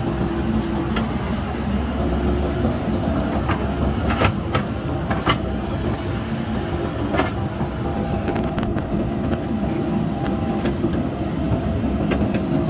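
JCB backhoe loader's diesel engine running steadily under load, with several sharp metallic clanks from the working machine about four to five seconds in and again about seven seconds in.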